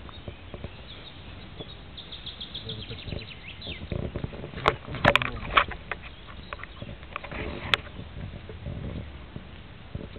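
A bird chirping, a quick run of short high notes, over low rustling. A few sharp clicks or knocks come near the middle, the loudest sounds, with one more a little later.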